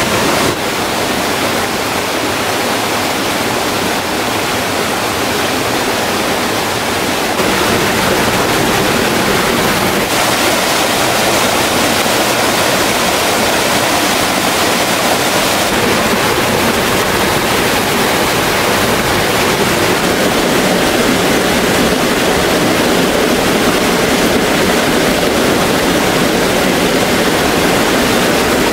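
Waterfall water rushing: a loud, steady hiss of falling and tumbling stream water.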